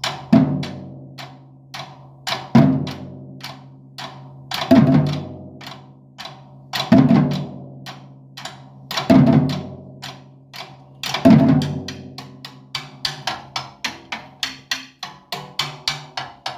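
Percussion ensemble playing: strong, low, ringing drum strokes about every two seconds with lighter taps between them. From about two-thirds of the way in, the strokes give way to a run of quick, sharp taps that speed up.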